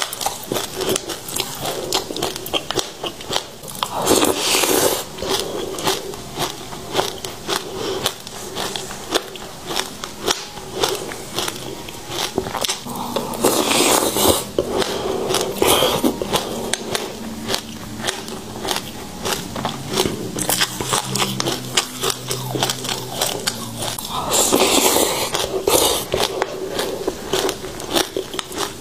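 Close-up chewing of passion fruit seeds: a dense run of sharp, crisp crackles and crunches as the seeds break between the teeth, with louder stretches about 4, 14 and 25 seconds in.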